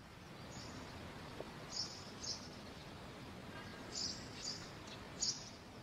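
Small birds chirping, a few short high chirps, several in pairs, over a steady quiet outdoor hiss.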